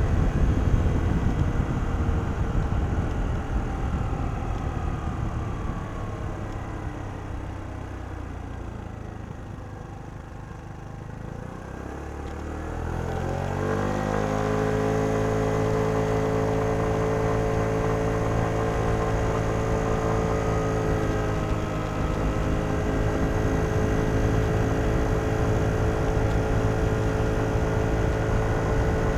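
Kymco Downtown 125i scooter's single-cylinder engine through its stock exhaust, heard from onboard. The engine note falls away and quietens as it slows, then about 12 seconds in it picks up and rises. It then holds a steady pitch while riding on, with a brief dip a little after 20 seconds.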